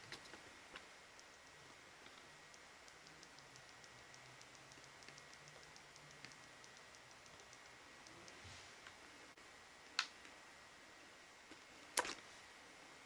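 Faint light clicks and ticks of small hard parts being handled, with two sharper clicks about ten and twelve seconds in, over a faint steady high tone.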